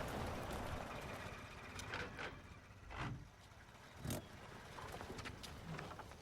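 A motor vehicle running, its noise fading away over the first couple of seconds, then a few separate sharp knocks.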